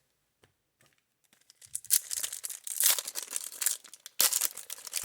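Baseball card pack wrapper being torn open and crinkled, a run of crackling tears starting about two seconds in with a sharp loud rip just past four seconds.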